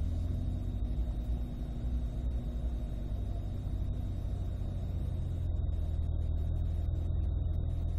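Chevrolet Corvette's V8 engine idling in first gear while the car creeps at walking pace, a steady low rumble heard from inside the cabin, with a faint steady high-pitched tone over it.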